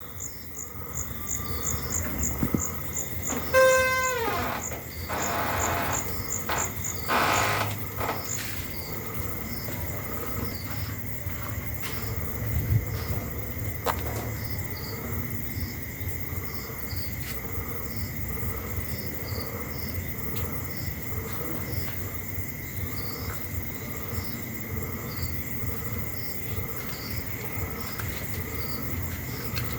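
Insects chirping in a steady, even rhythm, with birds calling. About four seconds in there is a loud call that falls in pitch, followed by a few brief noisy bursts.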